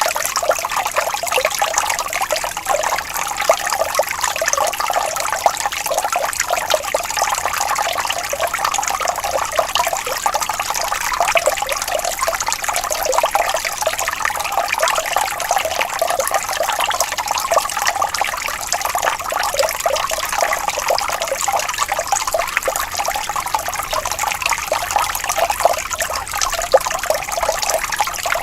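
Water flowing gently and trickling steadily in a small stream, a continuous babbling with many quick splashes.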